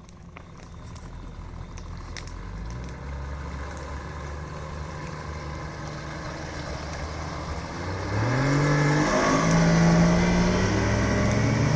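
Outboard motor of a Dnepr aluminium motorboat running, growing steadily louder, then revving up with a rising pitch about eight seconds in and holding the higher speed.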